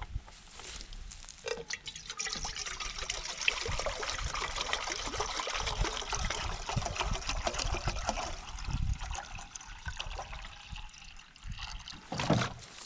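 Water pouring and trickling into a container, with a faint tone that rises slowly as the vessel fills. A short knock near the end.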